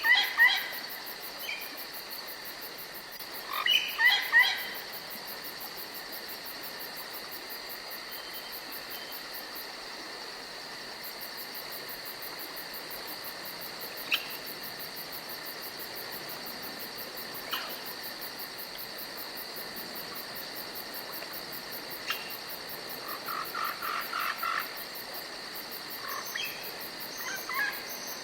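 Forest ambience: a steady high-pitched insect trill, with short clusters of bird calls near the start and around four seconds in, a few single chirps, and quick runs of notes near the end.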